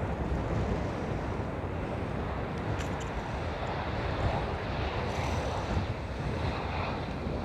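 Strong wind buffeting the microphone: a steady rushing noise with irregular low rumbling gusts.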